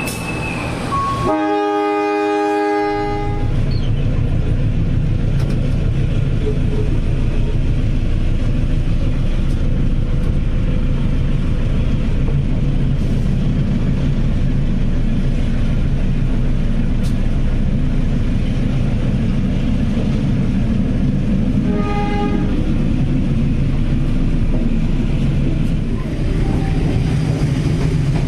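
Diesel locomotive horn sounding for about a second and a half near the start, then a train running with a steady low rumble, heard from the coach right behind the locomotive. A second, short horn blast comes about 22 seconds in.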